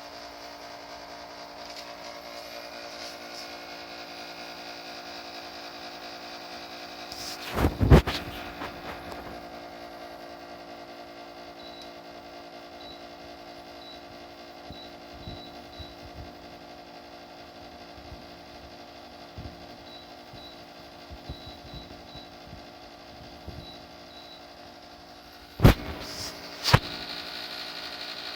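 Panasonic F-Y36CXW dehumidifier running with a steady buzzing hum of many layered tones: a resonance noise from the unit, the fault awaiting repair. A cluster of loud knocks comes about eight seconds in, and two sharp knocks come near the end.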